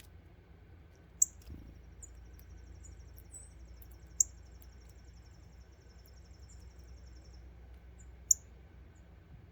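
Wild birds at a feeder: three sharp, high chip notes, a few seconds apart, with a long, high, even trill running for about six seconds behind them.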